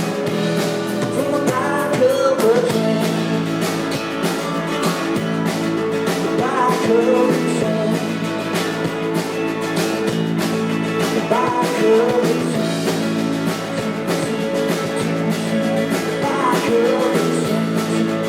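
Rock band playing a song live, with no lyrics sung: guitars over a steady drum beat, and a melody line that slides in pitch about every five seconds.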